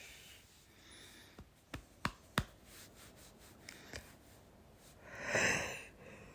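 Quiet close-microphone handling sounds: a few sharp clicks about two seconds in and another near four seconds, then a soft swell of rustling noise lasting about a second.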